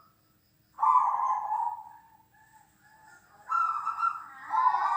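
Zebra dove (perkutut) cooing: a loud coo about a second in, a few softer notes, then two more loud coos near the end.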